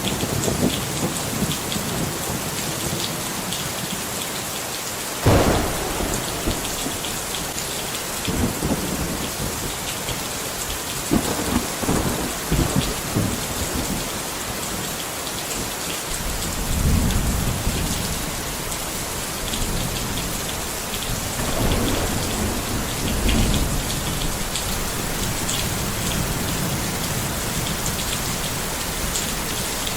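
Steady rain falling, with thunder: a sudden crack about five seconds in, then several low rolling rumbles that swell and fade over the next twenty seconds.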